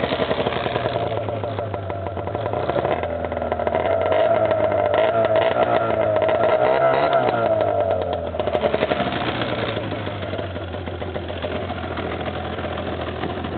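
1992 Polaris Indy 500 snowmobile's two-stroke engine running in freezing cold shortly after a cold start. It gets louder and its pitch shifts for a few seconds around the middle, then it settles back to a lower, steadier run.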